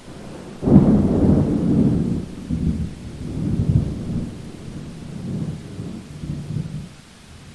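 A thunder clap breaking suddenly about a second in, then rolling and rumbling in several swells that fade out near the end, over steady rain.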